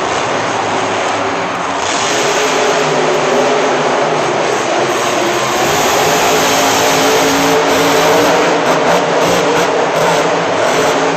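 Monster truck engine running hard, its pitch rising and falling as the throttle is worked.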